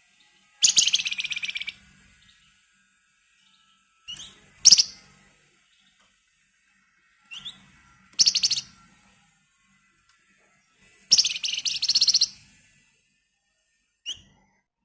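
Flamboyan (wergan Jawa) songbird giving rapid rattling 'ngebren' trills: four bursts of about a second each, several led by a short rising note, with pauses between and one short chirp near the end.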